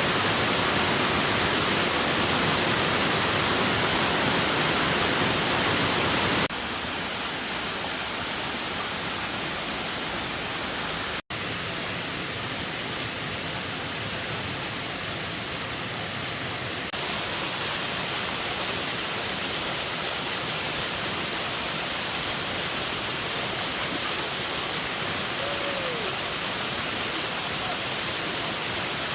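Steady rushing hiss of water, falling rain or running water. It drops suddenly to a quieter take about six seconds in, breaks off for a split second a little before halfway, then rises slightly again.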